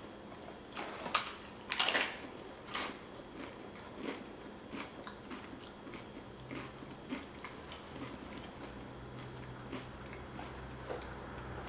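Close-up crunching and chewing of a Doritos tortilla chip loaded with hot crab dip: a few sharp crunches in the first three seconds, then softer chewing.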